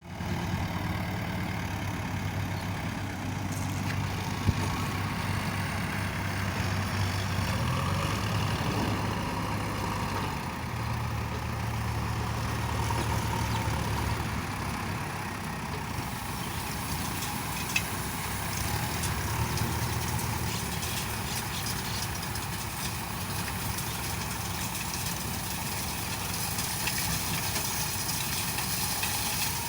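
Diesel engine of a JCB 3DX backhoe loader running steadily, its low hum shifting up and down in pitch a few times as the load changes. A couple of sharp clicks stand out, one about four seconds in.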